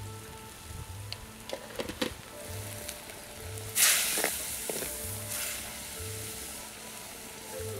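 Curry sizzling in a pot over a wood fire, with a few light knocks about two seconds in. A loud burst of sizzling comes just before the middle, as curry leaves and pandan leaves go into the hot curry and a ladle stirs it. Soft background music with a slow beat runs underneath.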